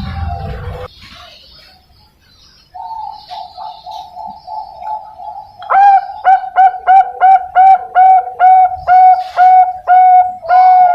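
Young Bangkok-strain zebra dove (perkutut) cooing. A soft rolling trill starts about three seconds in, then from about halfway a loud run of short, clipped coo notes comes at about two to three a second.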